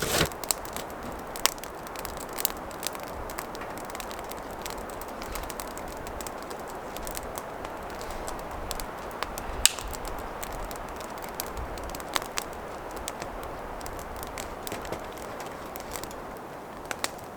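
Newly lit campfire crackling, with irregular sharp pops over a steady hiss.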